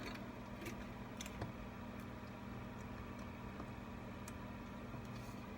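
Faint small clicks and taps of tools and parts being handled while iPad flex-cable connectors are fitted, a few scattered clicks over a steady low hum.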